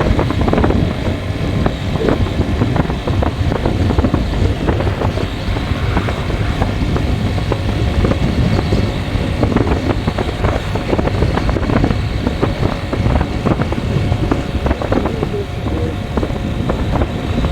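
A vehicle driving on a road: steady engine and road rumble with wind buffeting the microphone, crackling and knocking throughout.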